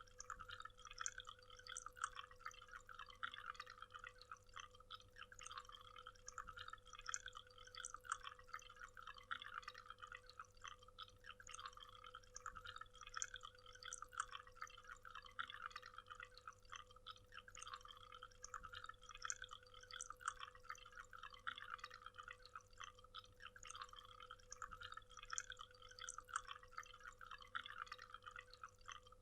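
Waterfall: a faint, steady rush of falling water with many small splashes.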